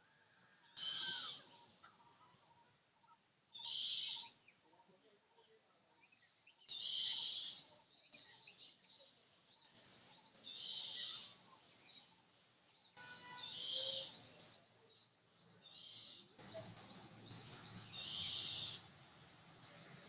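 Birds calling: about seven loud, harsh, high-pitched calls, each about a second long, with quick chirps filling the gaps from about seven seconds in.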